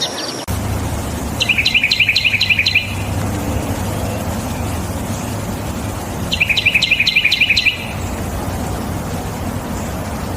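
A songbird giving a fast phrase of about ten sharp, rapidly repeated chirps, twice, about five seconds apart, over a steady low background rumble.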